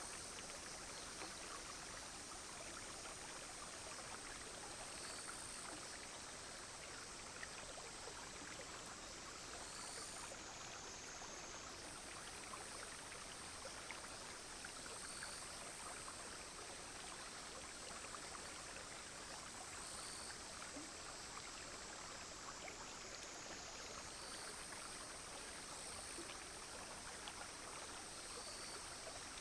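A small clear brook flowing steadily, with a continuous high-pitched drone of cicadas and other insects over the water that shifts pitch slightly a few times.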